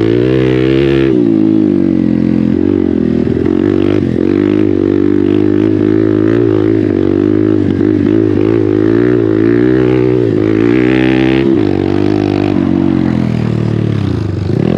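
Hero Xpulse 200's single-cylinder engine through an MW Performance aftermarket exhaust, running under load while riding deep ruts on a dirt track, the throttle rising and falling over and over.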